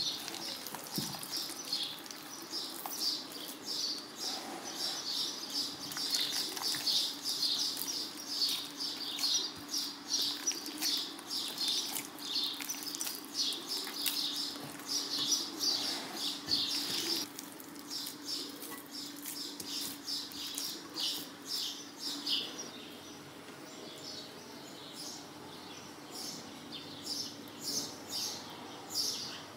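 Small birds twittering in quick, continuous chirps, thinning out about two-thirds of the way through, over a faint steady hum.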